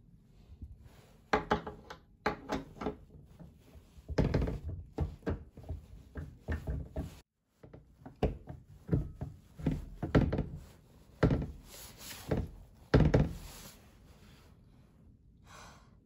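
Household handling noises: an irregular run of thunks and knocks, like things being set down and doors or cupboards handled, with a brief cut to silence about seven seconds in.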